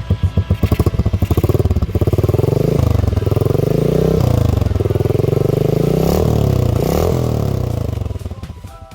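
Motorstar Well 125ii's 125 cc single-cylinder engine running through a Leo Vince aftermarket exhaust. It idles with an even pulsing beat, then is revved up and down several times, and the sound fades out near the end.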